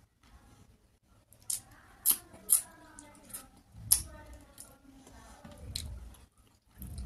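Close-miked wet chewing of a mouthful of rice and curry, with sharp lip smacks and mouth clicks at irregular intervals, the loudest about four seconds in.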